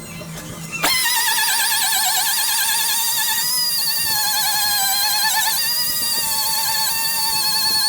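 A high-speed power tool spins up about a second in, rising quickly in pitch, then runs with a high, wavering whine.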